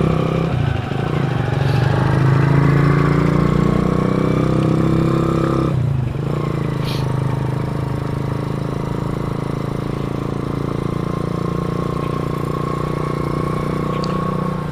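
Single-cylinder motorcycle engine from a Hero Honda CD 100, mounted on a BMX bicycle, running under way. Its revs climb steadily for several seconds, drop out sharply about six seconds in, then hold at a steady, slightly quieter pitch.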